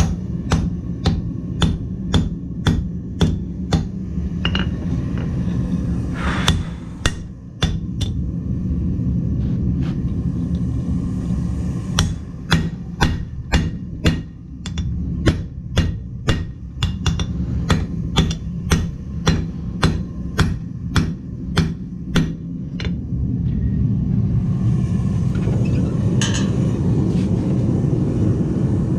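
Blacksmith's hammer forging metal on an anvil, sharp ringing strikes at about two a second in two runs with a pause between them, over a steady low hum. A steadier, louder rushing noise takes over near the end.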